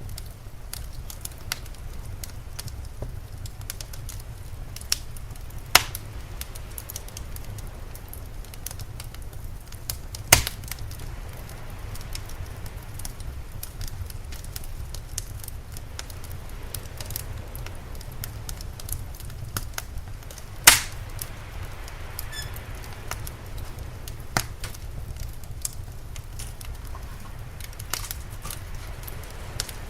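Wood fire crackling, with scattered sharp snaps and a handful of loud pops, over a steady low rumble.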